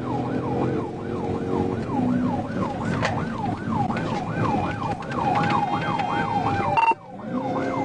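Police car siren on yelp, a fast rising-and-falling wail about three times a second, over the patrol car's engine and road noise. It breaks off briefly near the end and starts again.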